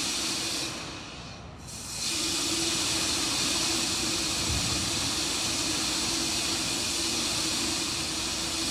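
Steady hissing with a constant low hum under it, which drops away briefly about a second in and then comes back.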